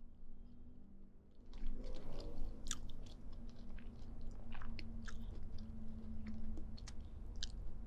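Close-miked chewing with wet mouth and lip clicks, starting about a second and a half in.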